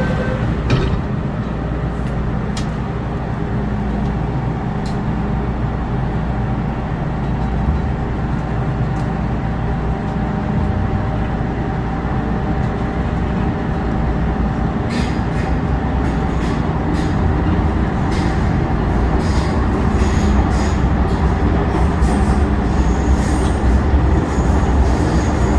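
MTR M-Train electric multiple unit running along the track: a steady rumble of wheels and running gear with a faint humming tone from the traction equipment. Scattered clicks and knocks come in from about halfway, and it grows a little louder near the end.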